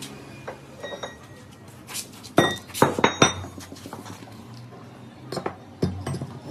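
Metal tools or parts clinking and knocking against each other, several sharp strikes with a brief metallic ring, bunched together about two and a half to three seconds in and a few more near the end.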